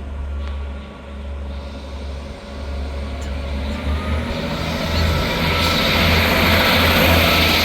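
Class 158 diesel multiple unit pulling away, its underfloor diesel engines running with a low pulsing drone, and engine and wheel noise building louder from about four seconds in.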